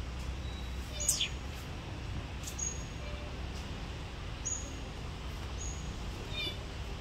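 Small birds chirping: short high chirps every second or two, a quick falling call about a second in, and a brief run of falling notes near the end, over a steady low rumble.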